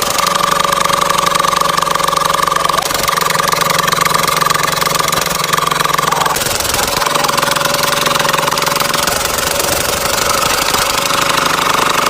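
Diesel engine running steadily with a fast knocking beat. Its tone shifts a few times: about three seconds in, around six to seven seconds, and near the end.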